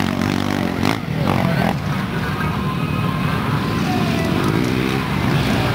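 Motocross dirt bike engines running on the track, their pitch rising and falling as the riders work the throttle.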